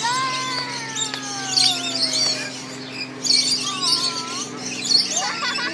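A flock of lorikeets chattering with many high, rapid chirps and squawks. A long falling tone runs through the first two and a half seconds, over a steady low hum.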